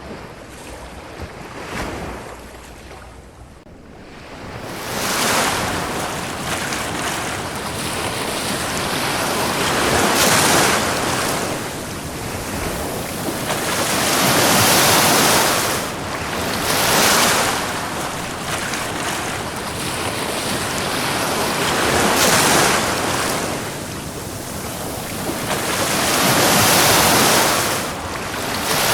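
Ocean waves breaking and washing up a beach, in repeated swells of surf hiss every few seconds. It is quieter for the first few seconds, and the waves build from about four seconds in.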